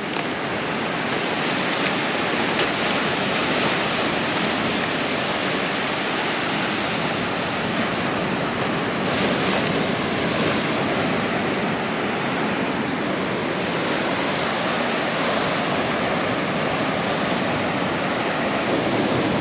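Surf breaking and washing up an ocean beach: a steady, even rush of noise.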